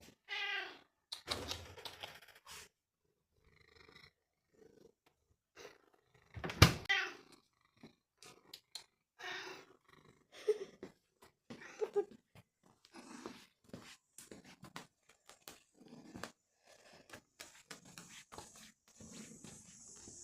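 A cat with no front teeth eating, its chewing a string of irregular clicks and scrapes as its remaining teeth scratch together. Two short meows, about half a second and six and a half seconds in, and a steady hiss sets in near the end.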